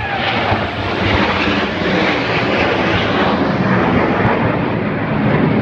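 Display aircraft flying low overhead: loud, steady engine noise that swells in the first second and then holds.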